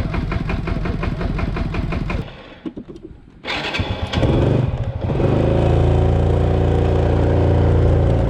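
Motorcycle engine idling with a rhythmic putter, dropping away for about a second, then picking up again and running steadily louder.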